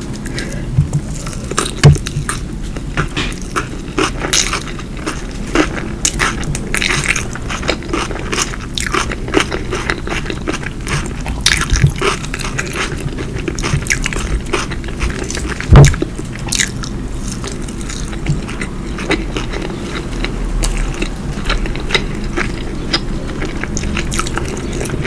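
Close-miked chewing and biting of food, with a steady run of wet mouth clicks and smacks. Two louder dull thumps stand out, about two seconds in and again about sixteen seconds in.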